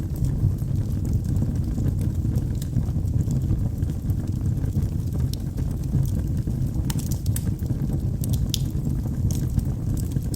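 Wood logs burning in a fireplace: a steady low rush of flame with scattered sharp crackles and pops, several close together about seven to nine seconds in.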